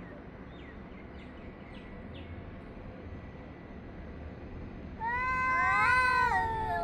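Domestic cat yowling, a caterwaul aimed at another cat: after a few seconds of low background, one loud, long drawn-out cry starts about five seconds in, rising in pitch and then sliding down.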